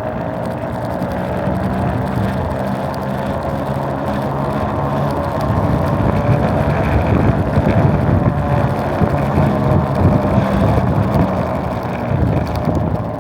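Electric mini bike being ridden along: a steady motor hum under wind and tyre noise, growing louder about halfway through.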